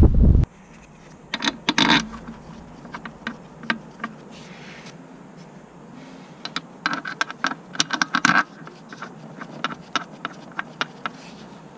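A loud rushing noise cuts off about half a second in. Then come scattered light metallic clicks and clinks of tools or parts being handled, with a quick run of them around two-thirds of the way through.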